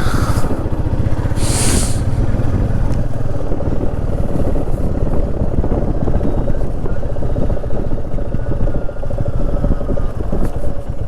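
Motorcycle engine running steadily at low speed on a rough dirt track, with a short burst of hiss about a second and a half in.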